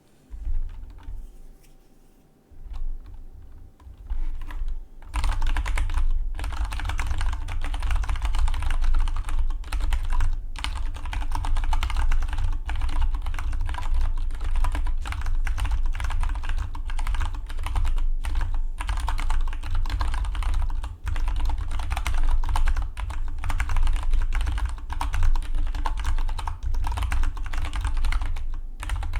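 Fast, continuous typing on a Dygma Defy split mechanical keyboard. A few scattered keystrokes come first, and the steady stream of key clicks starts about five seconds in.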